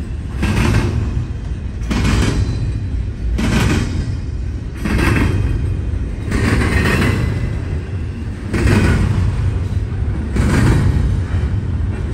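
Double-stack container freight train rolling past: a steady low rumble of steel wheels on rail, with a louder clattering surge about every one and a half to two seconds as each car's wheel sets go by.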